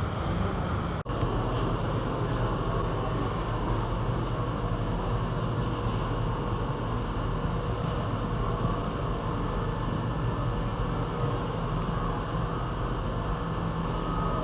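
Steady vehicle running noise, a constant low hum with faint steady tones, cut briefly by a dropout about a second in.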